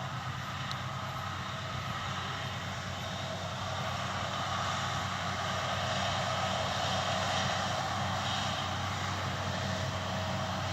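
Distant farm machinery, a tractor and baler working a field, running steadily. The engine hum swells a little about halfway through, then eases.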